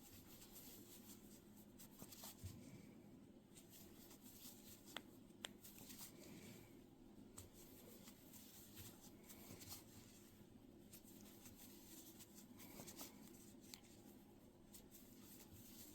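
Near silence with the faint rustle of yarn and light scattered clicks of a crochet hook working single crochet stitches.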